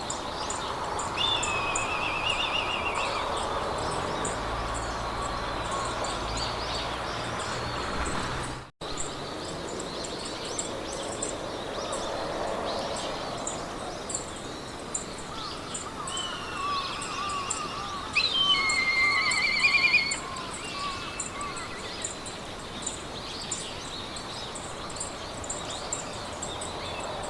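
Meadow ambience: several songbirds singing warbling phrases, the loudest song about two-thirds of the way through, over a fast, even insect ticking and a soft hiss of wind in grass. The sound cuts out completely for an instant about a third of the way in.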